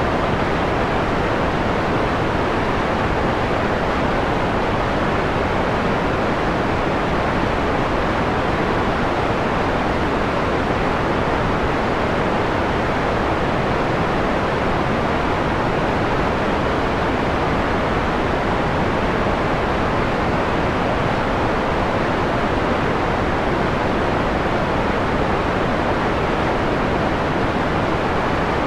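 Steady synthetic white noise, filtered to a mellow, darker tone with the high end rolled off; an even hiss that does not change.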